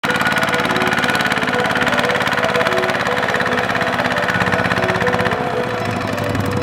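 A tractor engine running steadily, with short notes of a tune over it; the engine's low rumble changes about five seconds in.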